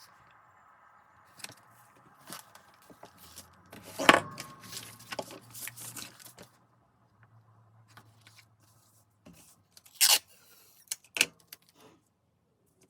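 Paper being handled: journal pages and paper rustling and crinkling in irregular bursts, loudest about 4 s in and again near 10 and 11 s.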